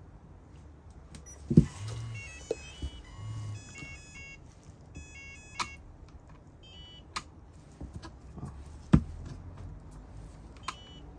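Short runs of electronic beeps in stepped tones from an RC truck's electronics, with a few sharp clicks and knocks between them. No simulated engine sound comes on.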